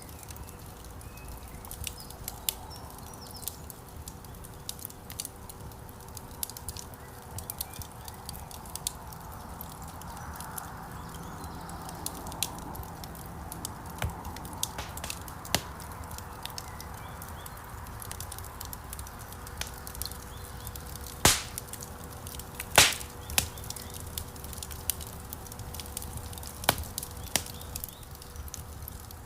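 Wood fire burning in a stone fireplace: a steady run of small crackles and ticks over the low rumble of the flames, with two loud pops about a second and a half apart some two-thirds of the way through.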